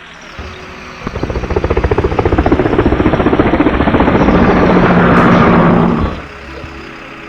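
A motor or engine running with a rapid pulsing chug. It starts about a second in, builds in loudness for several seconds, then cuts off abruptly. Soft background music plays before and after.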